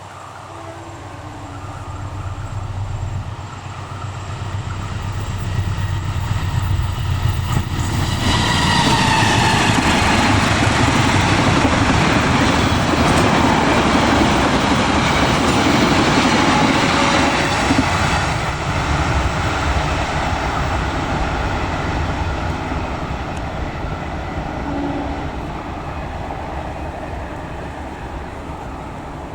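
A long passenger train passing at speed: a low rumble builds, then about a third of the way in the sound rises suddenly with a high tone falling in pitch as the front goes by. Wheels on rails then rumble and clack loudly for several seconds before slowly fading toward the end.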